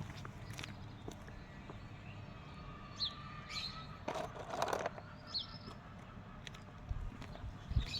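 Garden birds chirping now and then, short high notes that dip in pitch, over a quiet outdoor background. A brief rustle comes about halfway through, and two low thumps near the end.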